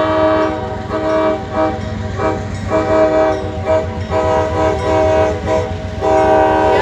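Diesel locomotive's air horn sounding a chord in a run of long and short blasts, over the low rumble of the passing train.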